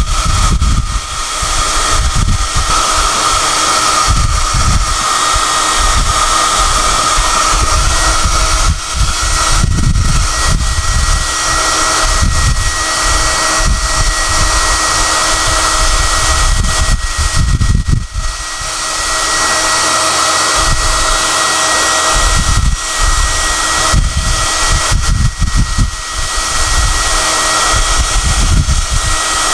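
SOUNATE high-airflow hair dryer running: a steady rush of air with a high-pitched whine over it, and an uneven low rumble as the airstream shifts.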